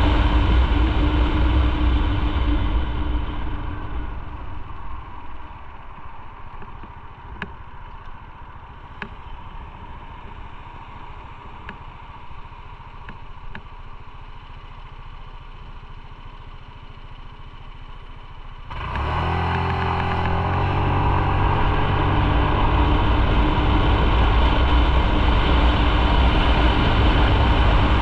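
Motorcycle engine slowing down and settling to a low idle, with a few faint clicks. About two-thirds of the way in, the bike revs and pulls away, the engine pitch rising through the gears into steady riding with wind noise.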